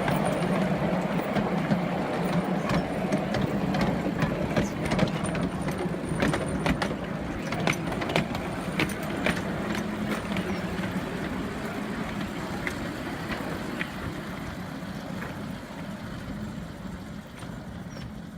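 A 7.25-inch gauge miniature railway train running along its track: a steady engine hum with scattered sharp clicks, growing gradually fainter as it moves away.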